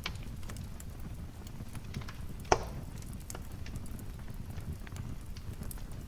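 Wood fire crackling in a fireplace: a steady low rumble of flames with scattered small snaps, and one sharp, louder pop about two and a half seconds in.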